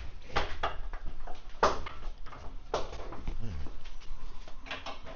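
A string of irregular knocks and clanks, the two loudest about a second and a half and two and a half seconds in.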